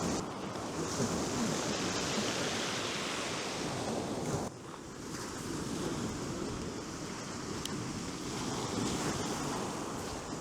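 Surf breaking and washing on a beach, with wind blowing over the microphone; the sound dips suddenly a little after four seconds in.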